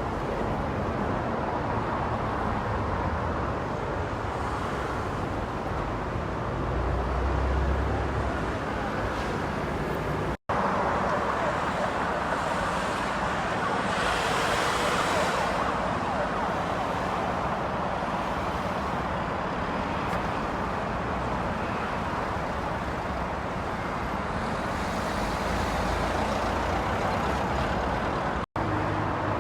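A car driving on an icy road: a steady rush of tyre and road noise with the engine underneath. It breaks off in two brief dropouts, about ten seconds in and near the end.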